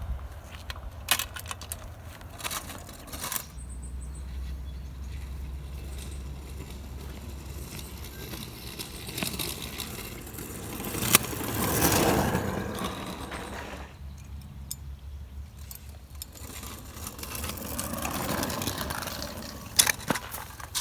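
Scooter rolling along a path: a steady low rumble with scattered rattles and clicks, and two longer swells of noise, one about ten seconds in and one near the end.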